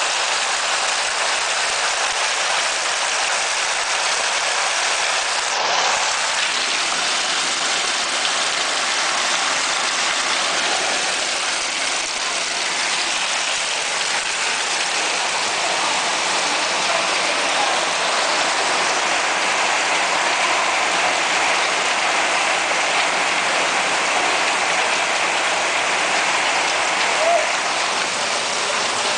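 Hail and heavy rain pelting down in a dense, steady hiss, with a single brief louder knock near the end.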